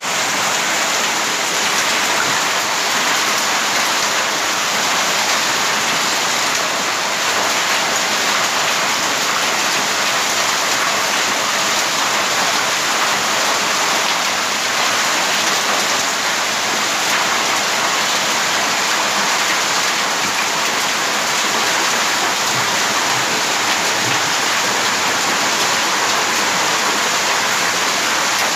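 Heavy rain mixed with hail pelting a paved street, a dense steady hiss that does not let up.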